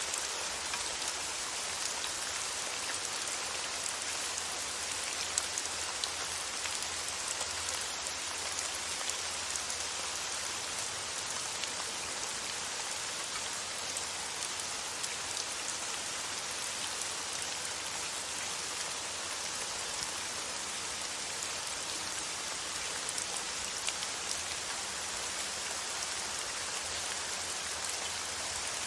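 Steady rain falling: an even hiss with scattered light drop ticks, unchanging throughout.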